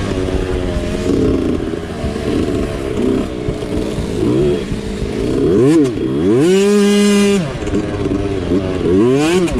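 Mini bike engine revving up and down as it is ridden hard on a dirt trail, with quick blips, then a high rev held for about a second past the middle, and several more quick rises and falls near the end.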